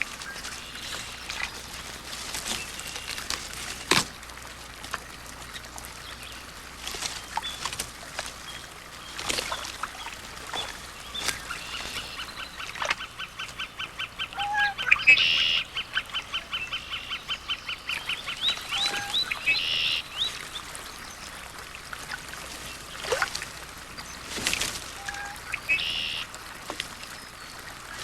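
Wild birds calling, waterfowl among them: short separate calls throughout, and a fast rattling trill that lasts several seconds in the middle.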